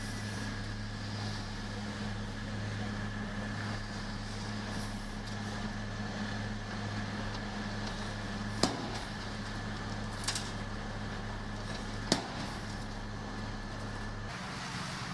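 Heavy construction machine's diesel engine running steadily, with three sharp knocks in the second half. The steady engine note changes near the end.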